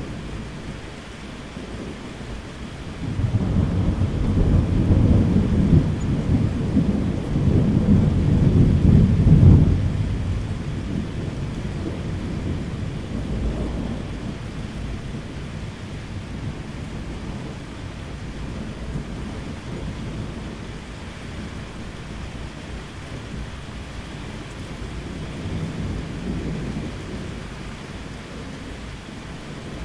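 Thunderstorm: steady rain with a long roll of thunder that swells about three seconds in, peaks near ten seconds and rumbles away over the next few seconds, then a fainter distant rumble near the end.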